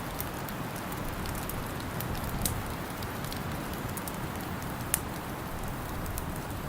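Wood fire crackling, with scattered sharp pops, the loudest about two and a half and five seconds in, over a steady low rush of wind.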